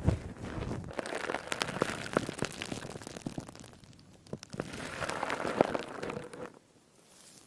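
A crispy sponge being squeezed close to the microphone, crackling and fizzing in two spells, the second dying away about six and a half seconds in.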